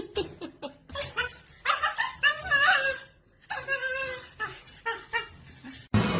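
A dog whining and yipping, a string of short pitched cries with pauses, the longest about two seconds in. Music cuts in suddenly near the end.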